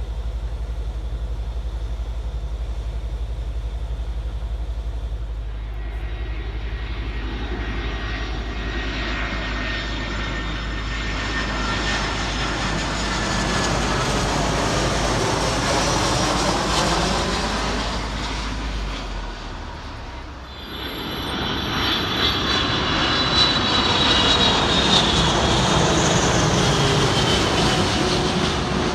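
Jet airliners arriving on approach and passing overhead. The first one's engine noise builds to a peak and fades. After a sudden break a second one passes, louder, with a high whine from its engine fans.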